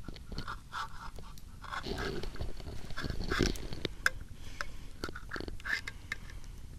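A tin can of beans being opened: metal lid being cut and scraped, with irregular clicks and short squeaks.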